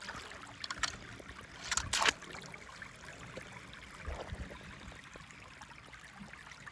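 Quiet hand-handling noises of toys and packaging: a few light clicks and short rustles, the loudest about two seconds in.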